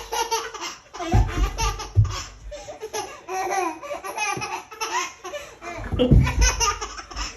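A baby laughing hard in quick repeated bursts of giggles and belly laughs, with a few dull thumps along the way.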